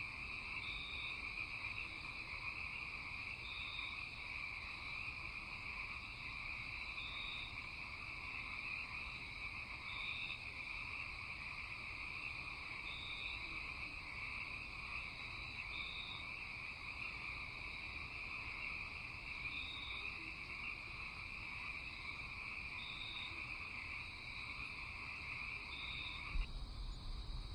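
Night chorus of frogs and insects: a steady high trill, with a short higher call repeating about every three seconds. Near the end the trill cuts off abruptly and a low rumble comes in.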